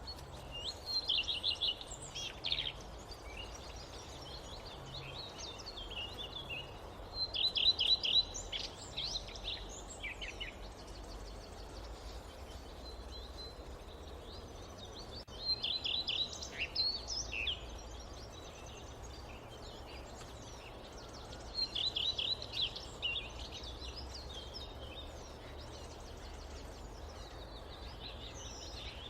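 A songbird singing four times, a phrase about every six to seven seconds, each a fast trill followed by a few varied notes. Under it runs a steady low background hiss of forest ambience.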